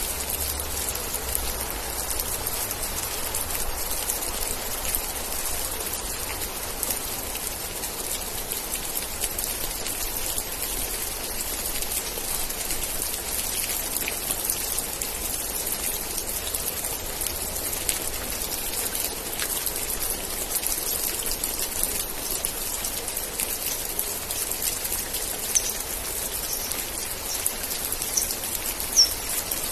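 Steady, heavy rainfall with individual raindrops pattering on surfaces, an even hiss throughout. A few brief high-pitched sounds stand out near the end.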